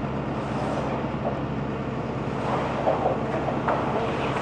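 Diesel engine of a loader running steadily at low revs, a constant hum with a faint steady whine, with a few light knocks about three seconds in.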